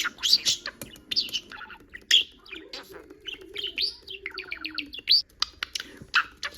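Pet budgerigar chirping and chattering: a busy string of short, high chirps and sweeping notes, with a quick run of rapid notes about halfway through.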